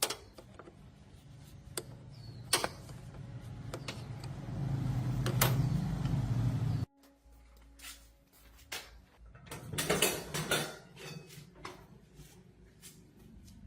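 Workshop handling sounds: scattered sharp clicks and knocks of hard parts. A louder, rough mechanical noise builds up and then cuts off suddenly about halfway through.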